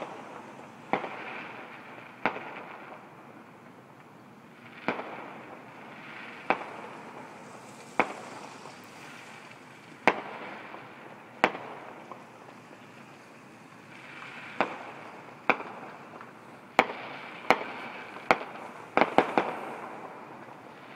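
Fireworks going off: about fifteen sharp bangs spaced one to three seconds apart, several trailed by a crackling hiss, with a quick run of bangs near the end.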